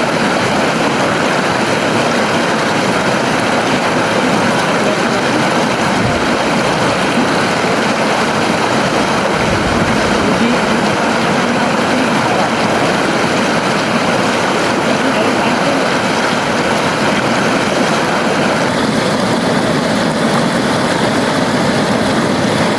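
River water flowing, a steady, dense rush of noise.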